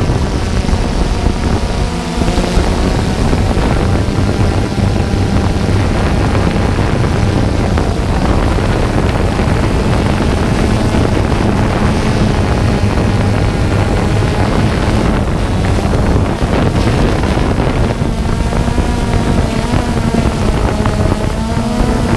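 Drone propellers and motors buzzing steadily, with wind buffeting the microphone; the motor pitch wavers near the end.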